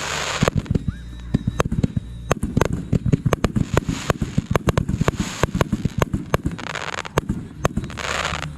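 Fireworks going off in rapid succession: a dense barrage of sharp pops and bangs, with several bursts of hissing crackle.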